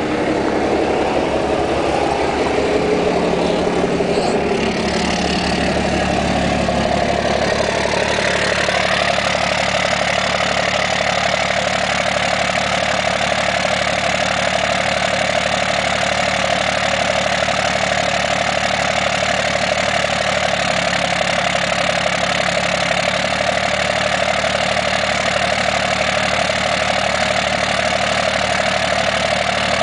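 The 5.9-litre 12-valve Cummins inline-six turbo diesel of a 1998 Dodge 2500 idling steadily just after a cold start in freezing weather. Its note changes about eight seconds in, then holds steady.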